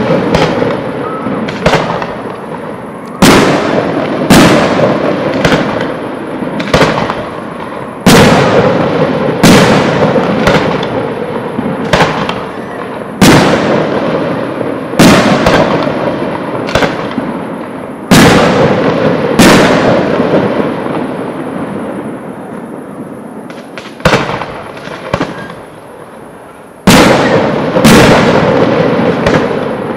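Aerial firework shells bursting overhead one after another, a loud bang about every one to two seconds, each trailing off in a long echo. A lull of a few seconds about two-thirds of the way through, then the bursts resume.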